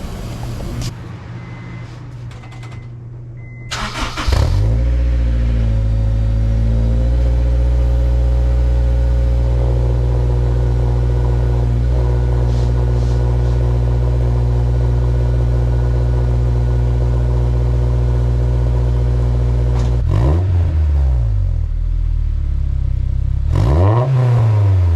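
Honda S2000's four-cylinder engine heard at its exhaust. A quieter steady hum comes first. About four seconds in the engine starts with a sudden burst, settles from a fast idle into a steady idle, and is revved twice near the end, the pitch rising and falling each time.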